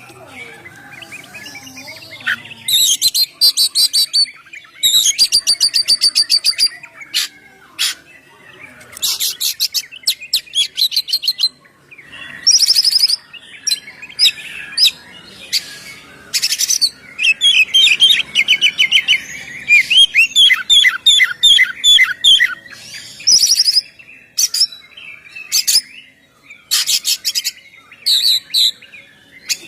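Oriental magpie-robin (kacer) singing loudly in bursts of rapid high trills and repeated whistled notes, with short pauses between phrases: the full, open song that kacer keepers call ngeplong.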